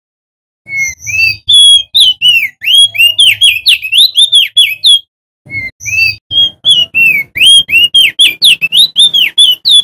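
A male crested white-eye (opior jambul) sings in two fast runs of loud whistled notes, each note sweeping up and down. The runs are split by a short pause about five seconds in, and the second one breaks off abruptly.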